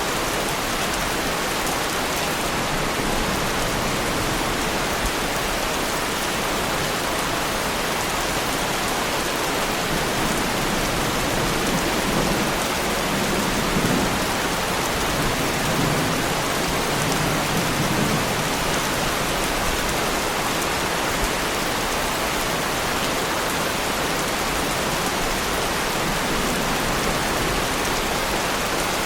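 Heavy rain falling steadily, with a low rumble of thunder rolling through in the middle.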